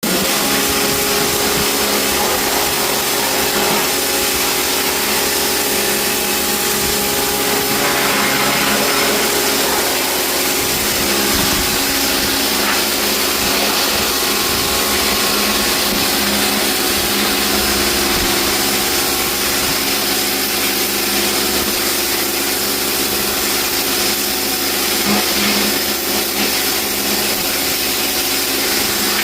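A motor-driven cleaning machine running steadily: a continuous loud hiss over a steady low hum.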